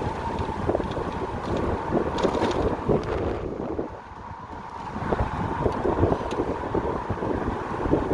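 Wind buffeting the microphone on a moving electric motorcycle, with a faint steady whine from the motor. The noise eases briefly about halfway through, then picks up again.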